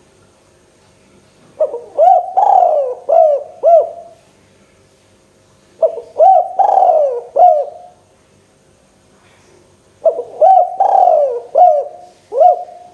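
Spotted dove (tekukur) cooing: three phrases of several notes each, about four seconds apart.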